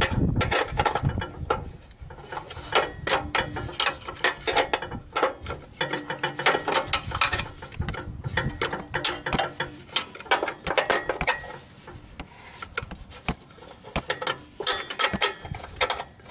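Repeated bursts of rapid mechanical clicking with rubbing and rattling, in irregular clusters.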